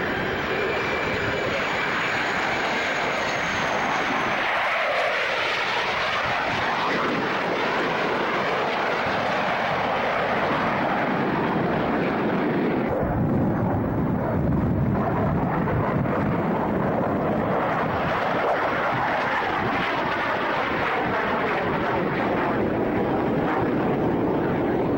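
Airplane engine noise, loud and steady, with slow rises and falls in pitch. The highest hiss drops out suddenly about halfway through.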